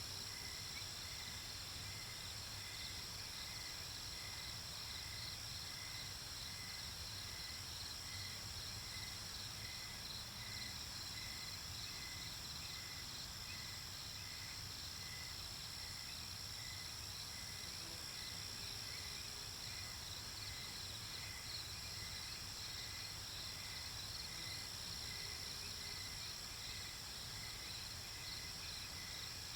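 Night-time chorus of crickets and other insects: a steady high trilling with one chirp repeating evenly, a little under twice a second.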